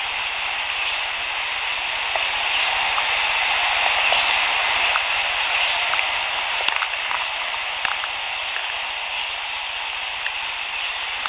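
Boosted field recording: a steady hiss with scattered faint clicks and pops, more of them in the second half.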